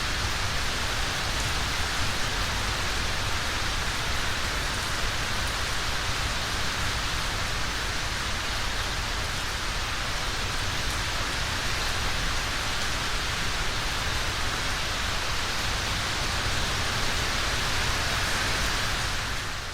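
Steady rain falling, an even dense hiss of drops with no pauses, fading out at the very end.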